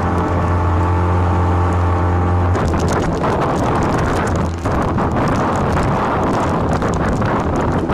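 A motor runs with a steady hum. About two and a half seconds in, the hum gives way to loud rushing wind and water-like noise buffeting the microphone, typical of a moving boat.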